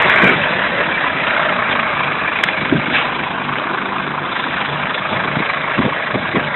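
Truck engine idling steadily, with a few short knocks over it.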